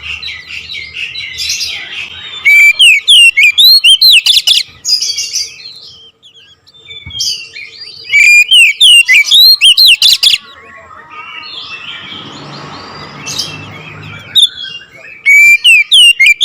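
Oriental magpie-robin (kacer) singing in loud bursts of rapid, sweeping whistles and sharp chattering notes, broken by short pauses. For a few seconds after the middle the song drops away and a softer hissing noise takes its place before the bird starts again near the end.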